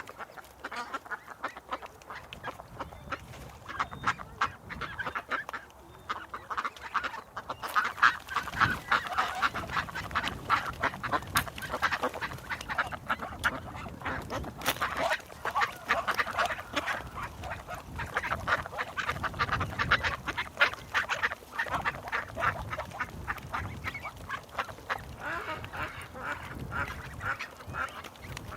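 A flock of ducks quacking continuously, many calls overlapping in quick succession, growing busier and louder about eight seconds in.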